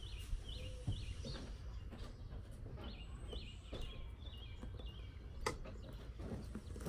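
Bristle hairbrush drawn through thick hair, with a bird chirping repeatedly in short high notes and a steady low hum. A sharp click about five and a half seconds in.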